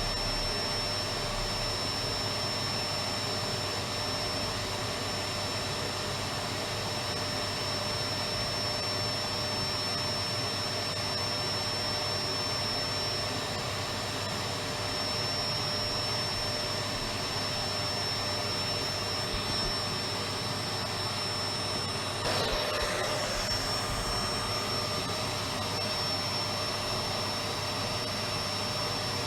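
Electric vacuum cleaner running steadily: a continuous whooshing motor noise with a steady high whine. About three quarters of the way through, the tone wavers briefly and gets slightly louder.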